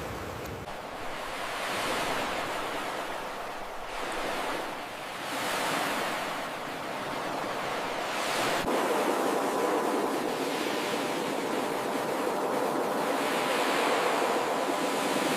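Ocean surf breaking and washing on a beach, swelling and fading in about four slow surges.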